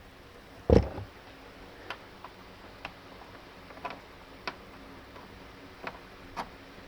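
A loud knock about a second in, then scattered light clicks and taps at uneven spacing: a stiff wire being bent and handled against a car's tailgate panel.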